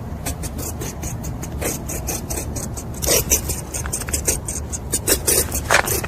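Rabbit gnawing: a fast run of dry, scratchy rasps, several a second, growing louder about three seconds in.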